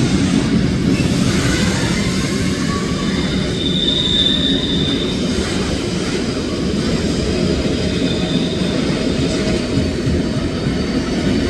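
A train running on the rails with a steady, loud rumble of wheels and cars. A brief high wheel squeal comes in about three and a half seconds in, with a fainter one near the end.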